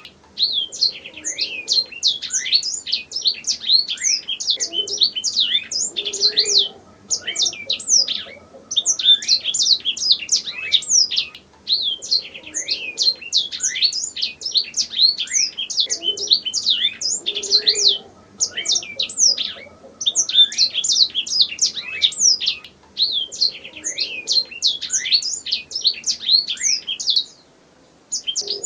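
Domestic canary singing, a long run of rapid high trills and chirps in phrases of several seconds, broken by short pauses.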